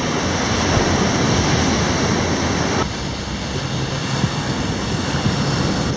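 Steady rushing noise of ocean surf and wind at the shore, dropping a little in brightness about three seconds in.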